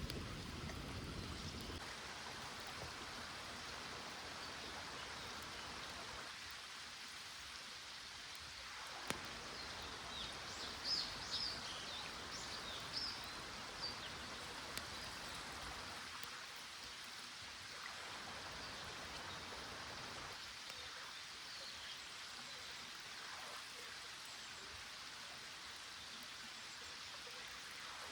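Steady rushing of a small creek. A few short, high chirps come through about ten to thirteen seconds in.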